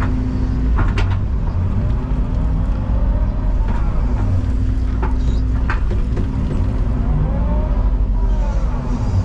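Excavator's diesel engine running steadily, with whines from the hydraulics rising and falling as the arm moves and a few sharp clanks, about five in all.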